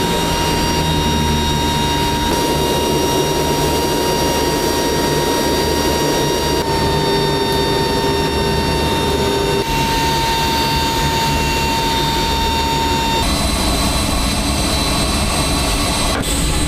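C-130J Super Hercules' Rolls-Royce AE 2100 turboprop engines running: a steady high whine over a low rumble. The sound shifts abruptly every few seconds.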